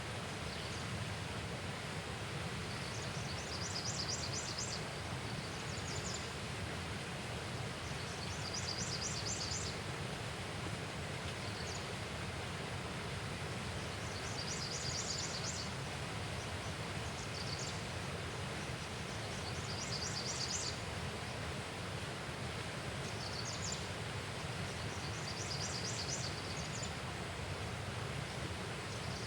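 Steady rushing outdoor ambience with no voices. Every few seconds there is a short burst of rapid, high chirping trills, each about a second long.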